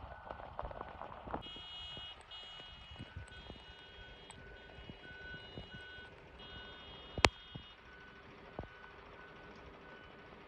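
Electronic vehicle warning beeper: a short beep repeating about twice a second throughout, with a higher multi-tone alarm pulsing on and off for several seconds over it. A sharp click about seven seconds in, and scattered knocks.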